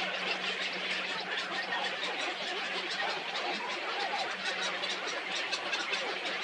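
Many birds calling at once in a dense, unbroken chattering chorus, with a faint steady low hum underneath.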